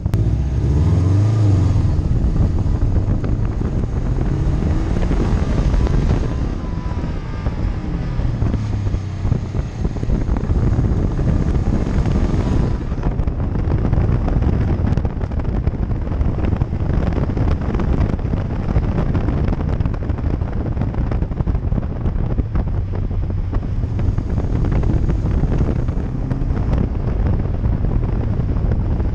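Subaru WRX's turbocharged flat-four engine revving up and down as the car is driven hard through an autocross course, with heavy wind buffeting on an outside-mounted microphone.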